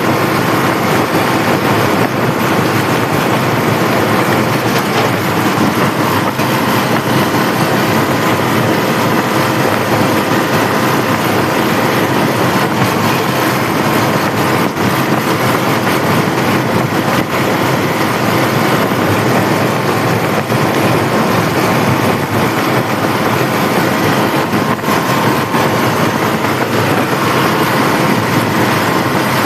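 Tractor engine running steadily under way, with an even mechanical rumble and rattle and no change in pace.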